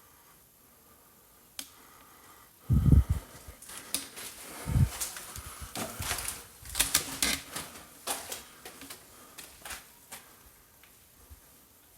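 Irregular clattering clicks and knocks, with two heavy thumps about three and five seconds in.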